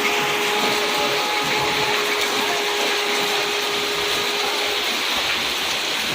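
Steady hiss of heavy rain pouring down, with a faint steady hum underneath that stops about three-quarters of the way through.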